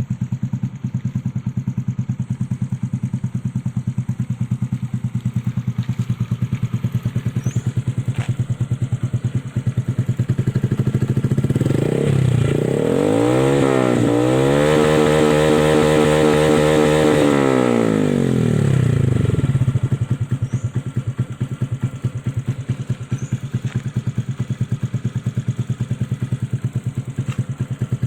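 Honda Blade 125 FI's single-cylinder four-stroke engine through an aftermarket Proliner racing exhaust, idling with a pulsing beat. About halfway through it is revved up, held high for a few seconds, then let fall back to idle.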